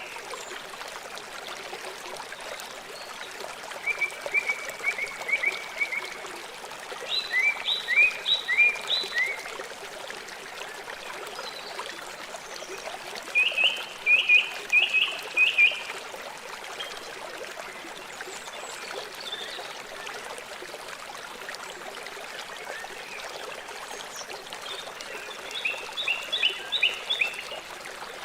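River water flowing steadily. An animal calls over it four times, each time a short series of rapid, high chirps lasting about two seconds.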